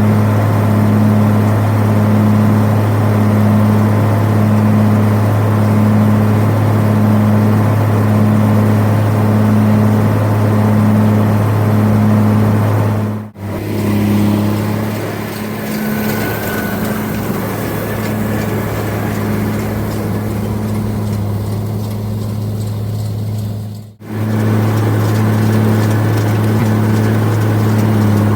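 1979 White 2-135 tractor's diesel engine running steadily under load while pulling a round baler, with a low hum and a pulsing overtone. The sound cuts out abruptly twice, and the stretch between the cuts is quieter and thinner.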